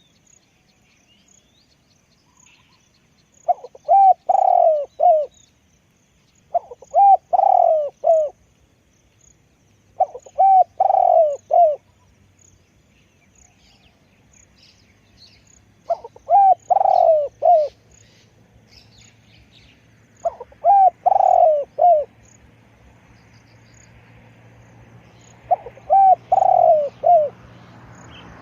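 Spotted dove cooing: six loud phrases of several coos each, a few seconds apart. Faint chirps and ticking sound behind them.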